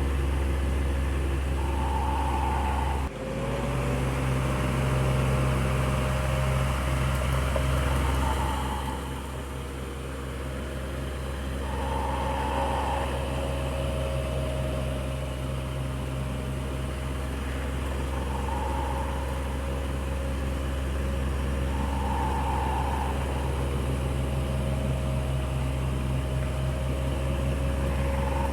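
Electric fan running with a steady motor hum and airflow, with faint swishes that come and go every few seconds. About three seconds in there is a brief dip, after which the hum sits a little higher in pitch, and it runs softer for a moment a few seconds later.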